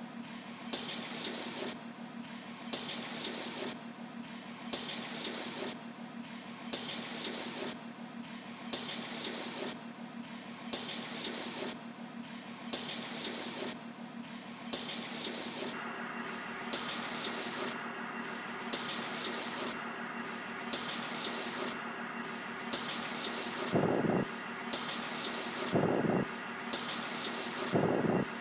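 Running tap water edited into a repeating loop: it rushes on for about a second, every two seconds, over a steady low hum. About halfway through a steady higher tone joins, and near the end a lower pulse sounds on each beat.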